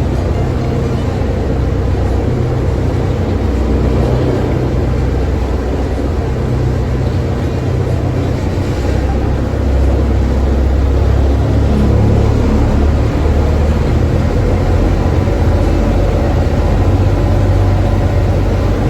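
Car driving on the road, heard from inside the cabin: a steady low engine and road rumble that grows a little louder about halfway through.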